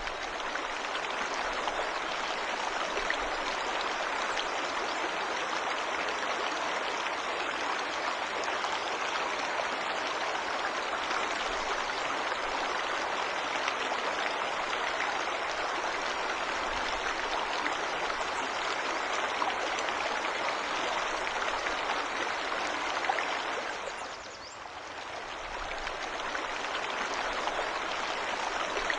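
Waterfall: a steady rush of falling water that dips briefly about twenty-four seconds in and then builds back.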